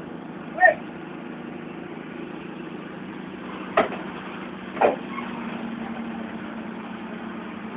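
Forklift engine running steadily at idle or low revs, with two short sharp knocks about a second apart near the middle.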